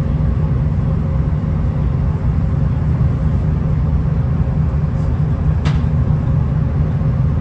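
V/Line VLocity diesel multiple unit running: a steady low drone of engine and wheels on rail, with a faint steady whine over it and a single click about five and a half seconds in.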